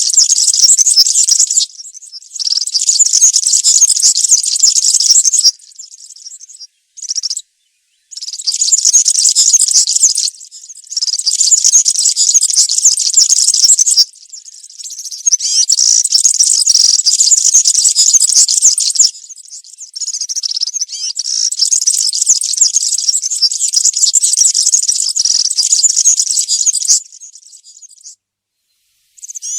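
European serin singing: a high, fast jingling song in long phrases of two to seven seconds, broken by short pauses, with one very short phrase about seven seconds in.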